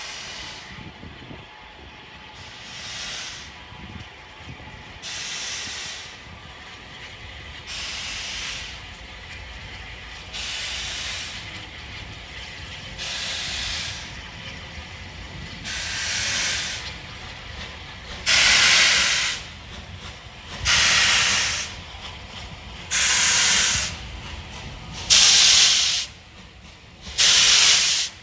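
Steam locomotive exhaust beats: heavy hissing chuffs of steam about every two and a half seconds, growing louder and slightly quicker as the engine pulls away slowly.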